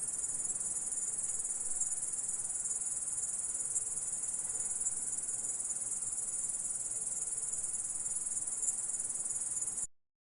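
Stridulating insect (the recording is offered as a grasshopper) giving a steady, unbroken high-pitched trill that cuts off suddenly near the end.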